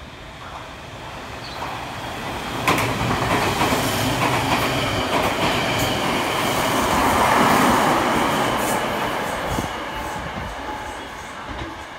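Tobu Railway Ryomo limited express, an electric train, running through the station at speed without stopping. Its rumble and wheel clatter over the rail joints jump up sharply about three seconds in, are loudest around seven to eight seconds in, then fade as it recedes.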